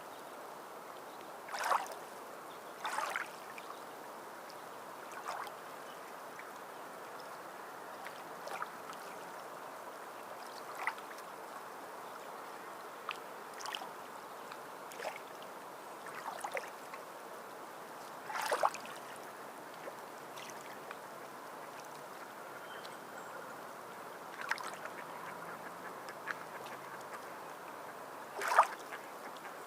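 Sea water lapping and splashing under a steady wash, with short, sharper splashes at irregular intervals, one every second or two, the loudest about two seconds in, around eighteen seconds in and near the end.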